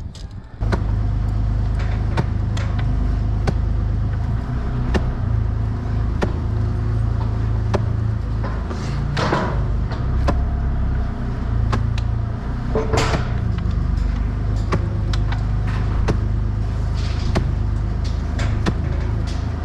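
A small engine on a piece of construction machinery running steadily at a constant speed, with sharp knocks and clanks at irregular intervals of about half a second to a second.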